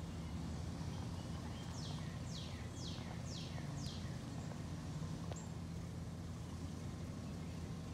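A songbird singing five quick down-slurred notes in a row about two seconds in, over a steady low background rumble.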